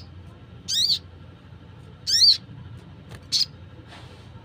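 Wild crimson sunbird (sogon) calling: three short, shrill, high-pitched calls about a second and a quarter apart, each a quick run of rapid notes, the last one briefest.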